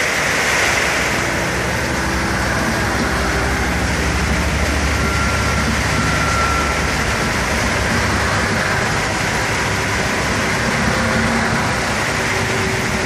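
Heavy rain falling steadily, with the low rumble of a departing diesel train underneath. The rumble is strongest from about a second in until a little past the middle, then eases.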